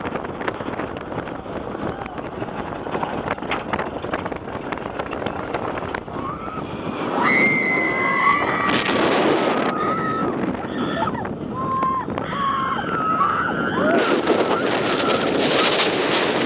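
Roller coaster ride heard from a rider's seat: wind rushing over the microphone and the rattle and roar of the train on the track. From about seven seconds in, riders scream and yell, and near the end the rush of wind grows louder.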